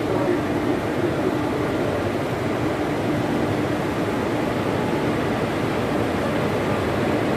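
Electric locomotive hauling a passenger train, pulling slowly out of the platform. It gives a steady hum and rush with a faint low tone.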